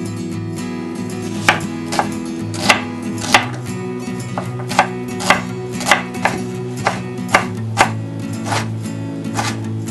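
Kitchen knife chopping onion and kimchi on a wooden cutting board: sharp, irregular knocks, about one or two a second, beginning about a second and a half in. Background music plays throughout.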